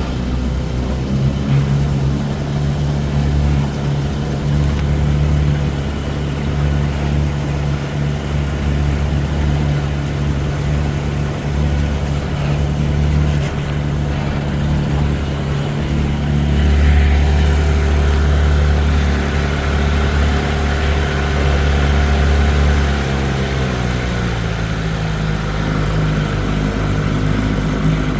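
Johnson 20 hp outboard motor running steadily with the boat under way. Its pitch eases slightly lower near the end as it slows a little.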